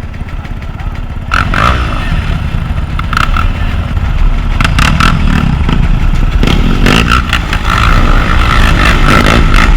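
Dirt bike engine running, getting louder about a second in and staying loud, with scattered clattering knocks over it.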